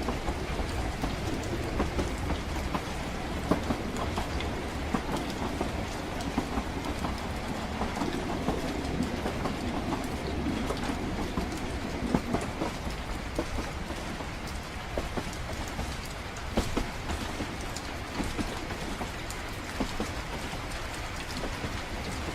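Train ride ambience: a steady low rumble of a train running on rails, with scattered light clicks and knocks, mixed with rain pattering.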